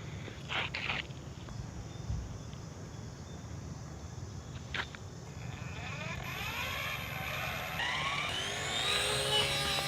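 Model helicopter's motor spinning up: after a few short clicks, a whine rises steadily in pitch from about halfway through and settles into a steady tone near the end.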